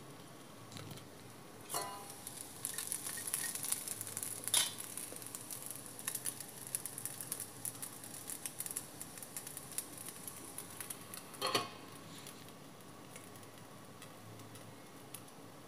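Rice fara in a mustard-seed and red-chilli tempering sizzling faintly in oil in a lidded pan, crisping on the second side. Three sharp clinks of pan and lid break the crackle, about two, four and a half and eleven and a half seconds in.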